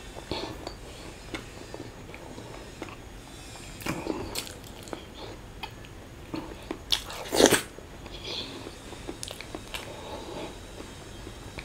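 Close-miked chewing and biting as a man eats boiled egg and curry-mixed rice with his fingers: scattered small mouth clicks and smacks, with one louder burst about seven seconds in.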